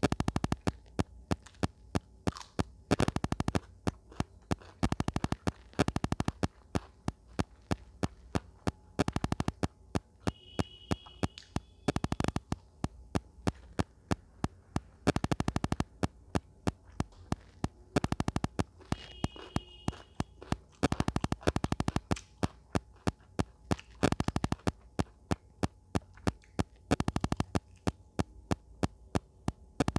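Close-miked eating sounds: chewing with sharp wet mouth clicks, a few a second, bunching into dense runs every two to three seconds.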